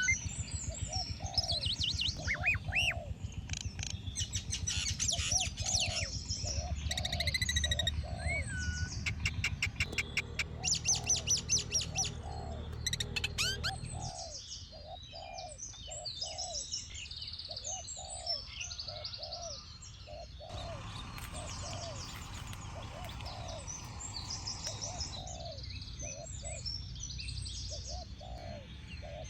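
Several birds calling at once: quick high chirps and trills over a lower call note repeated about twice a second.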